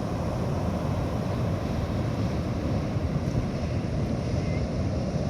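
Steady wash of ocean surf breaking on a beach, mixed with wind buffeting the microphone.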